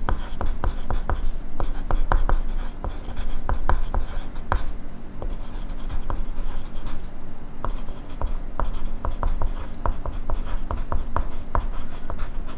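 Pencil writing on paper: quick, irregular strokes and taps of the graphite point, several a second, with a brief sparser stretch midway.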